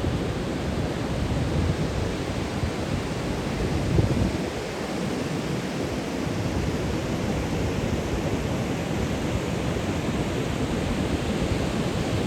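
Wind buffeting the microphone over a steady wash of ocean surf, with a stronger gust about four seconds in.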